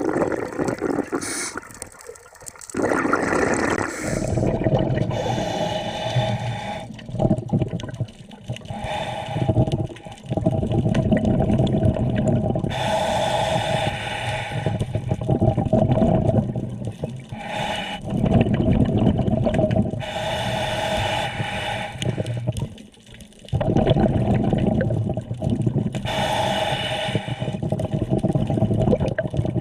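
A scuba diver breathing through a regulator underwater: hissing inhalations and rumbling, gurgling exhaust bubbles, repeating breath after breath.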